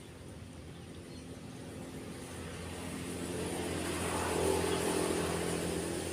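A motor vehicle's engine passing by, growing louder to a peak about four seconds in and then fading, over the steady wash of waves.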